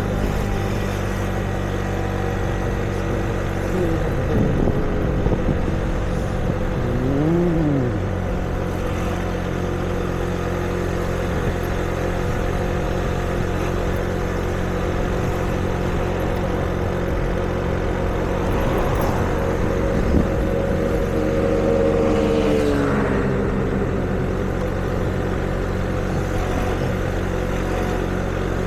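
Street traffic: vehicle engines running steadily, with one engine's pitch briefly rising and falling about seven seconds in and another sliding down about twenty-two seconds in.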